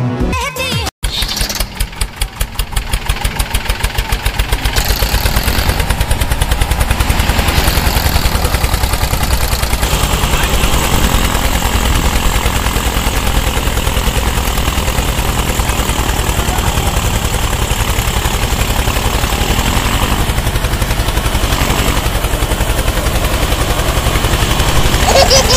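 Tractor engine running after a cut about a second in, its exhaust beats slow at first and quickening and growing louder over the next few seconds, then a steady rapid beat.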